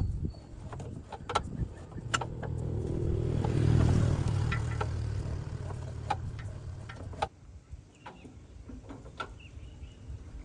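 A motor vehicle's engine rumbles, swelling to its loudest about four seconds in and then fading, before dropping away suddenly about seven seconds in. Scattered sharp clicks and knocks come through it.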